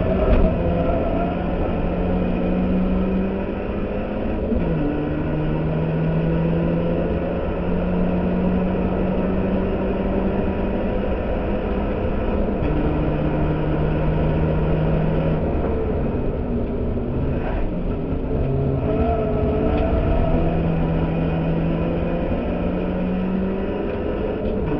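Ford Fiesta race car's engine running hard, heard inside its stripped-out cabin, with road noise. The engine note drops and climbs again several times as the car goes through gears.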